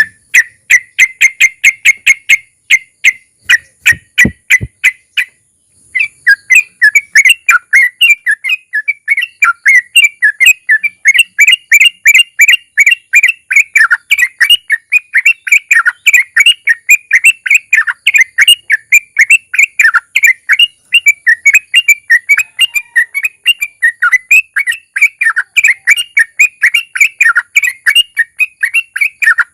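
Yellow-vented bulbul (trucukan) singing its long, fast chattering 'ropel' song of rapidly repeated notes, several a second. The song breaks off briefly about five seconds in, then runs on unbroken.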